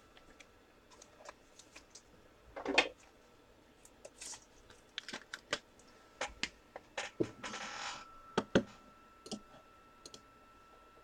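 Scattered light clicks and taps of things being handled on a desk, with a short rustle about three seconds in and a longer rustle near the eight-second mark.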